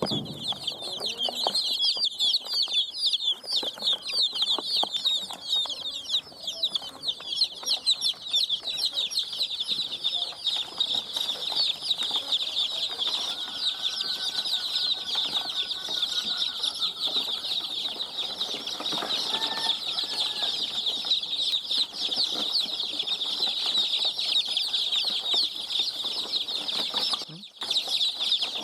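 Many baby chicks peeping at once, a dense stream of high-pitched overlapping chirps that drops out briefly near the end.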